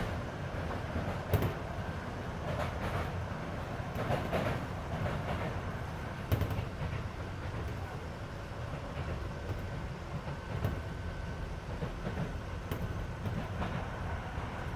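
Cabin running noise of a Keisei 3400 series electric train: a steady low rumble with wheel clacks over rail joints every second or two, and the air-conditioning running underneath.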